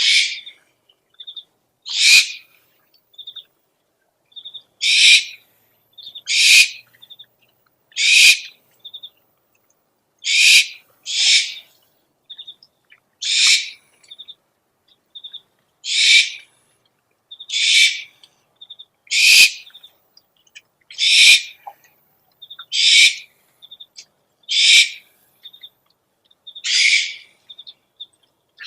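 Owl calling: a run of about fifteen harsh, hissing screeches, one every one and a half to two seconds, with short faint high peeps between them.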